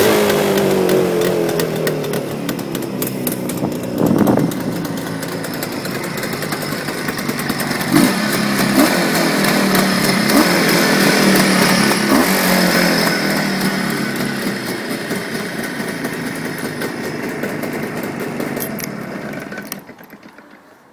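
Jawa 638's two-stroke twin-cylinder engine running, its revs falling at the start, then a few short throttle blips. The sound sinks and drops away near the end.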